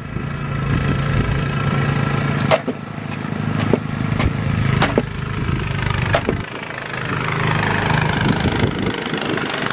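Small petrol engine of a snowblower running steadily, with a few sharp knocks in the middle and a swell of noise near the end.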